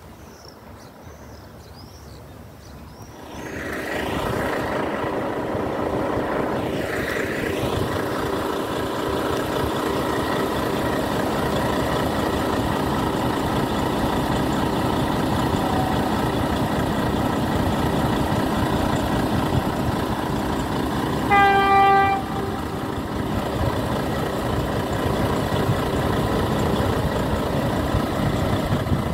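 A train comes in: its engine and running noise rise in about three seconds in and then hold steady. About two-thirds of the way through it sounds one short horn blast.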